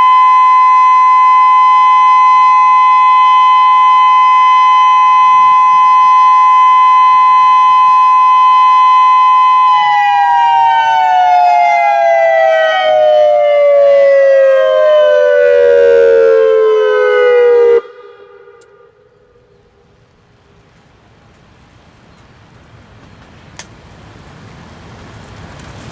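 Federal Signal Modulator 6024B outdoor warning siren sounding a loud steady tone during a test. About ten seconds in, the pitch glides steadily down for about eight seconds, then cuts off suddenly. Faint background noise follows.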